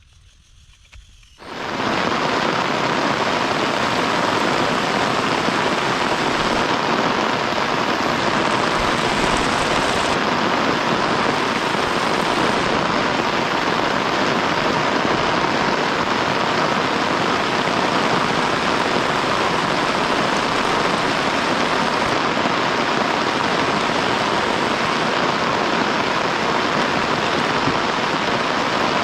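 Heavy, steady rain, starting abruptly about a second and a half in and then holding even.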